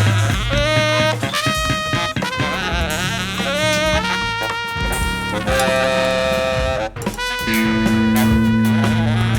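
Live jazz sextet: saxophone and trumpet play held, bending melodic lines over electric bass, Fender Rhodes and drums, with a brief break about seven seconds in.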